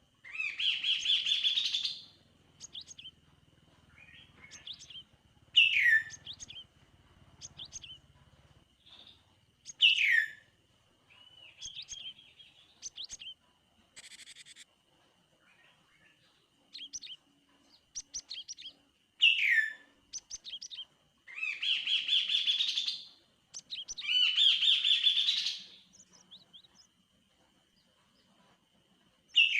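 Kaso-kaso (tepus gelagah) bird singing: loud chattering phrases of about two seconds, between sharp down-slurred whistles and short chips. A faint steady high tone runs underneath.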